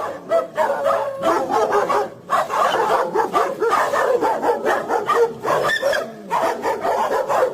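A dog vocalising in a long run of short, wavering pitched calls, with brief breaks about two and six seconds in.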